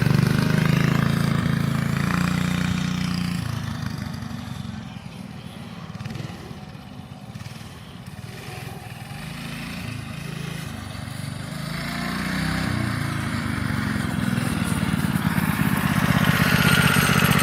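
1971 Trail Jet minibike's 5-horsepower single-cylinder engine running under throttle as it is ridden, fading away into the distance and then growing loud again as it comes back, its pitch rising and falling with the throttle.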